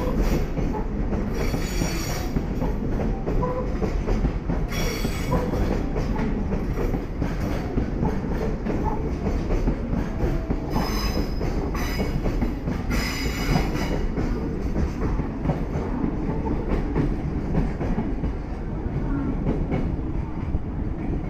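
Container freight train's wagons rolling past at speed: a loud, steady rumble of steel wheels on rail, with brief high-pitched wheel squeals coming and going several times. The last wagon goes by near the end and the rumble eases a little.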